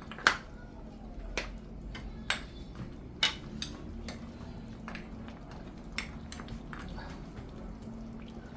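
A spoon clinking and tapping against a cooking pot, about ten separate sharp knocks at uneven intervals, over a low steady hum.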